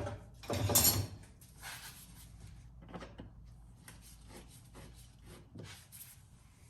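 Tool and handling noises while a fastener on a car's air intake is loosened by hand: a loud scrape and knock about half a second in, then a run of light clicks and scrapes as it is turned.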